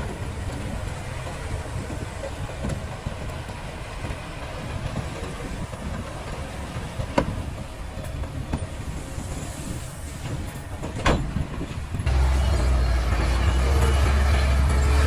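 Heavy diesel earthmoving machinery running, with a steady low engine rumble and two sharp metallic clanks. About twelve seconds in the engine note steps up and gets much louder.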